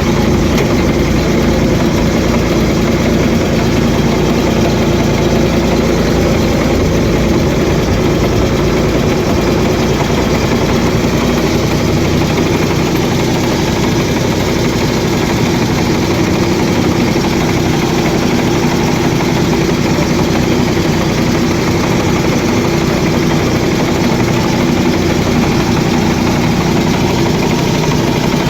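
Engine of a 1970 Ford tractor running steadily at a constant speed.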